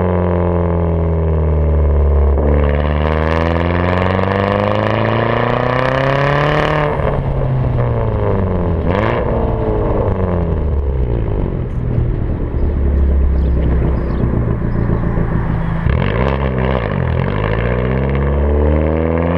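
Turbocharged Audi B5 A4 engine under way, its pitch climbing steadily for several seconds, then dropping suddenly about seven seconds in as it shifts or lifts off, and rising and falling with the throttle after that.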